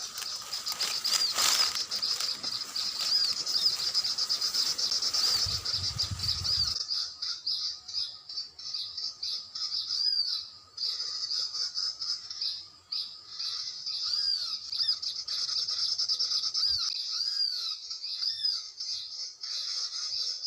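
High, arching bird chirps repeated over and over, a call recording played from an MP3 player to lure sunbirds and spiderhunters to bird-lime traps. For the first seven seconds a rustling noise runs under the calls, then stops suddenly.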